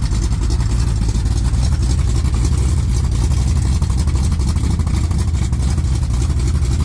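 Truck engine idling loudly with a choppy, loping idle ("chop, chop, chop") while it backs up, the lumpy idle typical of an aggressive camshaft.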